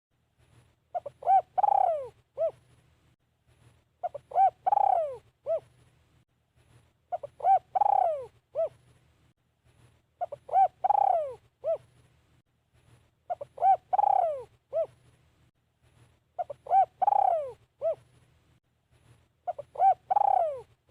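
Spotted dove cooing: a phrase of two short coos, a long falling coo and a short closing coo, repeated seven times at about three-second intervals.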